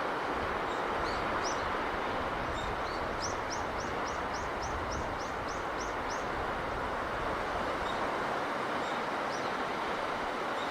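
Steady rushing of sea breeze and surf, with a small bird chirping above it: a few scattered high chirps and, a few seconds in, a quick run of about ten chirps, roughly three a second.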